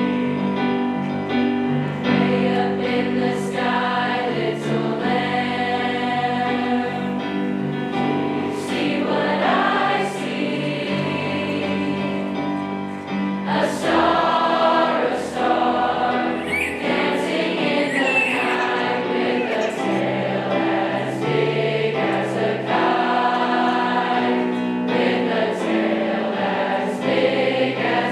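A high school choir singing a Christmas song in harmony, several voice parts holding sustained notes.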